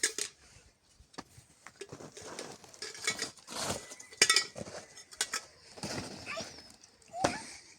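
Irregular clinks, knocks and scraping of objects being handled, in quick uneven bursts, with a short wavering animal-like call near the end.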